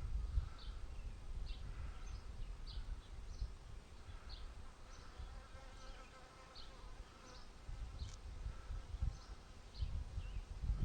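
Honey bees buzzing around an open hive, a faint steady hum, with gusts of wind rumbling on the microphone.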